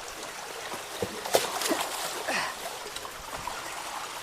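Water running and trickling through a clogged culvert, with a few splashes and knocks about one to two seconds in.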